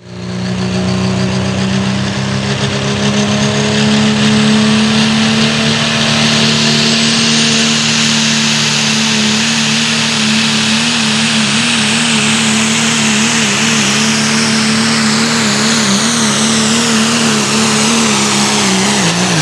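Four-wheel-drive pulling truck's engine held at full throttle through a pull, running loud and steady with a high whistle that rises over the first several seconds. The engine note wavers in the second half, then drops sharply near the end as the throttle is cut at the end of the run.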